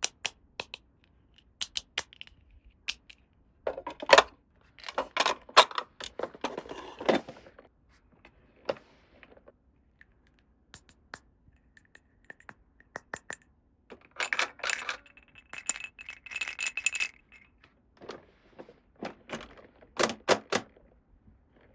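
Small plastic toy pieces being handled, unpacked and set down: scattered clicks, taps and rattles in clusters, with quiet gaps between.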